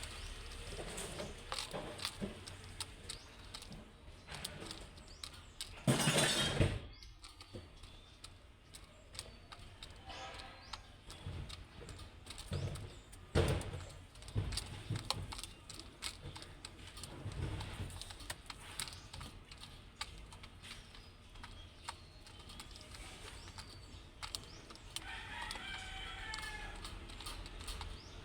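Birds in a loft: scattered clicks and scuffs, a loud rustling burst about six seconds in and another about halfway, and a short wavering bird call near the end.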